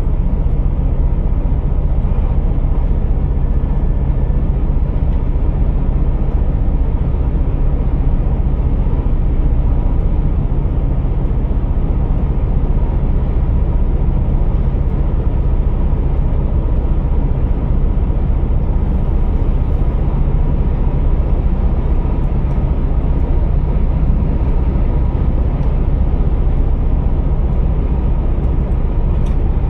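Scania R480 truck's six-cylinder diesel engine running at a steady drone, with a small click near the end.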